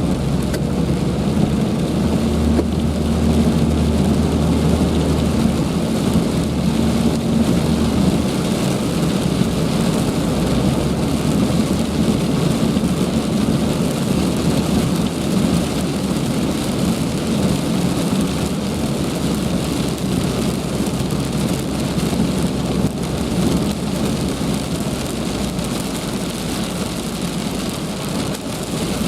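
Heavy rain falling steadily, a dense even hiss. A low hum lies under it for the first several seconds and then fades.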